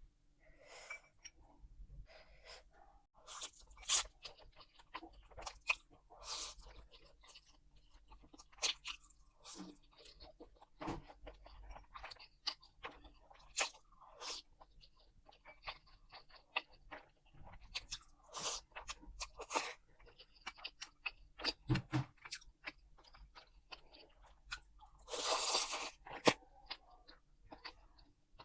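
A person eating: chewing and biting, with many short crunching clicks and one longer noisy sound of about a second near the end.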